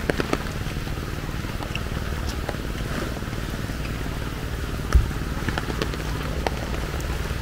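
Rain and wind on a handheld camera's microphone while walking: a steady low rumble with scattered sharp ticks of raindrops, and one louder thump about five seconds in.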